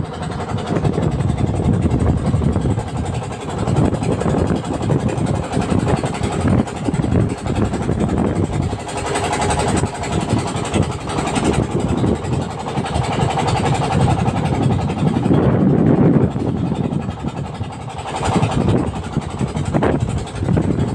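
Boat engine running steadily, a continuous rumble with some rushing noise over it.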